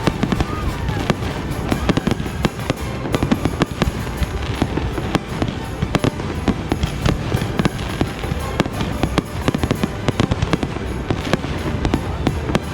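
Fireworks going off in rapid succession: a dense, continuous run of bangs, thuds and crackles with no pause.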